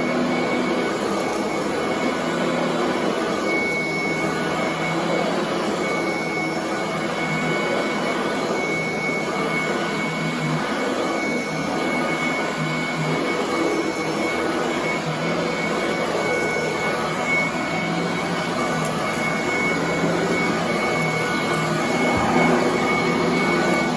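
Commercial upright vacuum cleaner running steadily over carpet, its motor giving a high whine.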